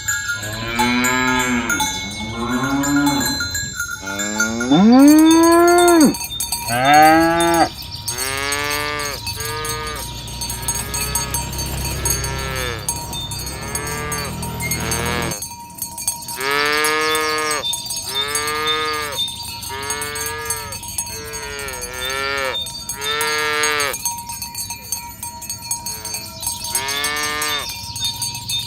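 Herd of cattle mooing, call after call, each moo rising and then falling in pitch, coming about a second apart with short gaps.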